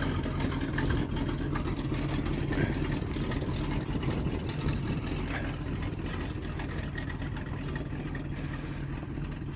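1974 Chevrolet C65 grain truck's 366 V8 idling steadily, its exhaust loud and rough because the truck needs a set of mufflers.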